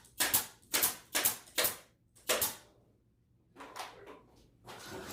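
Staple gun firing staples through pool table bed felt: five sharp shots in about two and a half seconds, then fainter scuffs.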